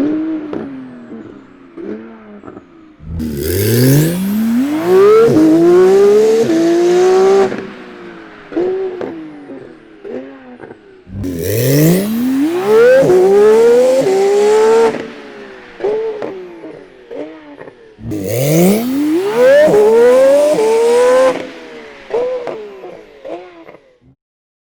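Porsche 911 GT2 RS (991.2) twin-turbo 3.8-litre flat-six under hard acceleration. It makes three long runs, each rising in pitch through a gear change before cutting off, with shorter revs between them. The sound stops abruptly near the end.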